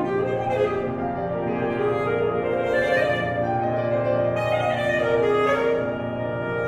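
Alto saxophone playing a melodic line of held notes that shift in pitch every second or so, with piano accompaniment underneath, in a contemporary classical sonata.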